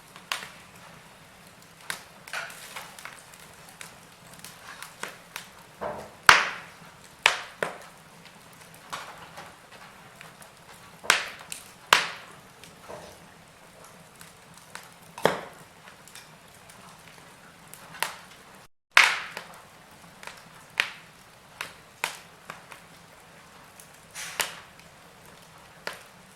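Wood fire burning in a fireplace: irregular crackles and sharp pops, a few of them loud, over a faint steady hiss, with a split-second gap of silence about two-thirds of the way through.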